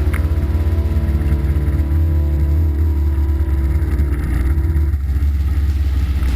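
Kawasaki KLE 500's parallel-twin engine running at steady revs under way, with a strong low thrum; its tone changes about five seconds in.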